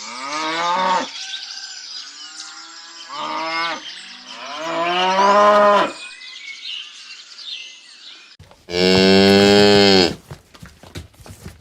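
Cattle mooing: four calls, the last one about nine seconds in the loudest, with a steady hiss behind the earlier calls.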